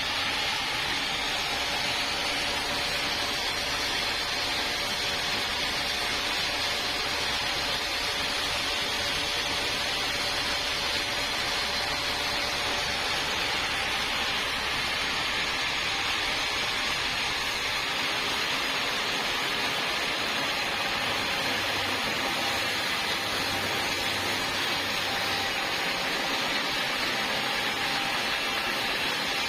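Sawmill machinery running steadily, a continuous hiss with a low hum underneath that drops away about two-thirds of the way through.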